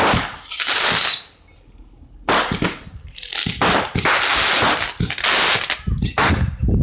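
Fireworks going off: loud bangs and long spells of dense crackling, with a short high whistle about half a second in.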